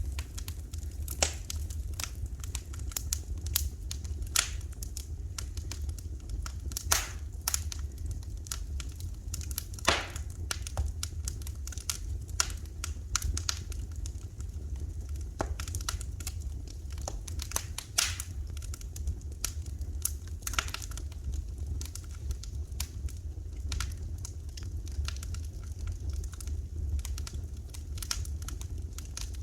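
Wood fire crackling in a fireplace: irregular sharp pops and snaps, a few louder ones scattered through, over a steady low rumble.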